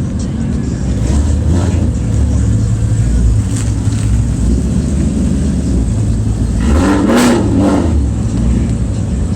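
Car engines and exhausts running loudly and steadily, with a short rise and fall in pitch and a sharp burst about seven seconds in, like a quick rev.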